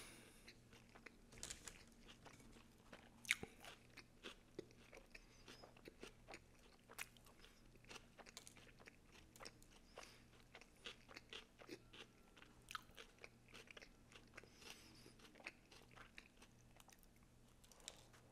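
A person chewing a mouthful of Subway footlong sandwich on Italian bread with salami, pepperoni and raw vegetables, picked up by a close microphone. It is soft crunching with many small wet mouth clicks, one louder click about three seconds in.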